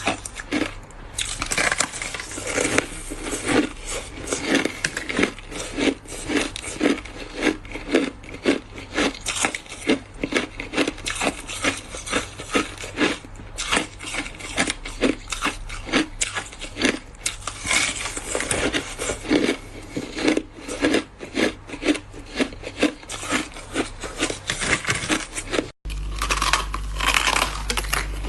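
Ice being bitten and chewed close to the microphone: rapid, repeated crunching, about two to three crunches a second. Near the end the sound breaks off for an instant and resumes with a low steady hum underneath.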